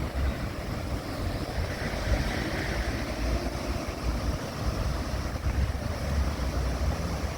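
Wind rumbling on the microphone over a steady rushing outdoor noise.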